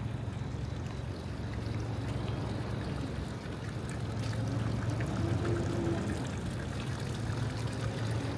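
Fountain water splashing in a steady rush, over a low, steady hum of city traffic.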